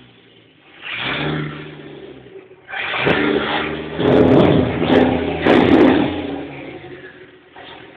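Audi S2's turbocharged inline five-cylinder engine revved in a series of throttle blips, the revs rising and falling several times, then dropping back to idle near the end.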